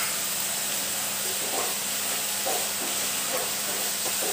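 Vegetables and sauce sizzling steadily in a wok over a high gas flame, with faint scrapes of a spatula stirring the pan from about a second in.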